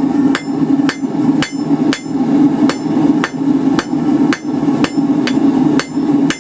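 Rounding hammer striking hot 1/4-inch round bar on an anvil, drawing out a taper: steady, evenly spaced blows at about two a second, each with a short bright ring.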